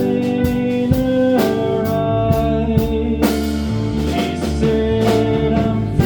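Live rock-blues band playing an instrumental passage: sustained guitar and bass notes over a steady drum-kit beat.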